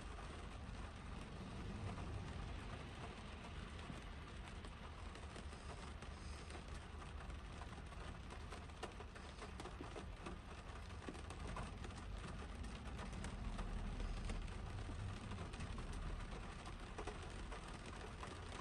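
Spring rain falling on a car's roof and windshield, heard from inside the car: a steady hiss dotted with many light drop ticks, over a low rumble.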